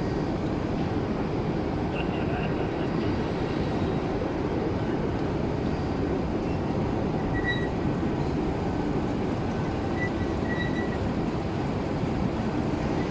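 Electric hand dryer running: a steady, loud rush of air.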